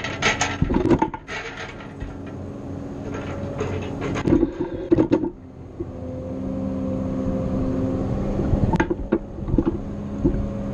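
Engine of a hydraulic grapple loader running with its pitch shifting as it works, heard close up from the grapple, with clusters of sharp clanks and knocks near the start, about four to five seconds in and about nine seconds in as the grapple handles the load.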